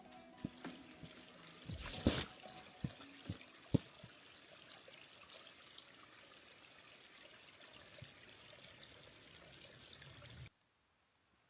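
Water running steadily, with a few sharp knocks in the first few seconds. The sound cuts off abruptly near the end.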